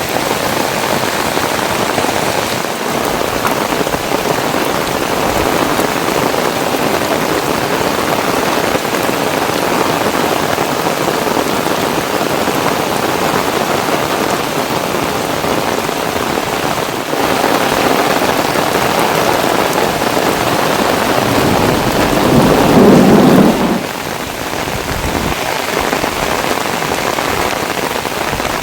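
Heavy rain pouring down in a steady hiss. About three-quarters of the way through, a deeper rumble of thunder swells up for two seconds, then stops abruptly.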